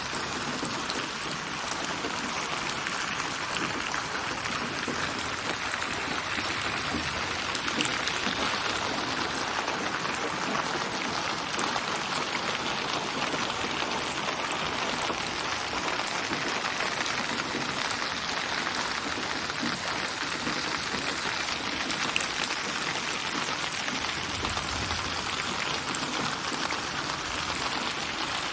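Steady rain: an even hiss of many small drops that neither rises nor falls.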